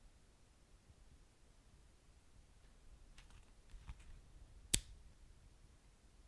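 Wood fire burning quietly in a fireplace, with a few faint crackles and one sharp pop a little after halfway.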